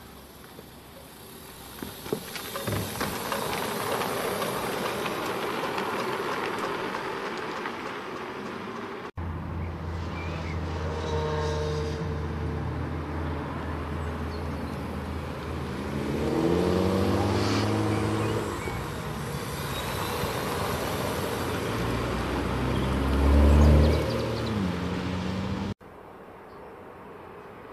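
Mercedes-AMG One's 1.6-litre turbocharged V6 hybrid engine driving by. It runs at a steady drone, then the revs climb twice, the second climb the loudest.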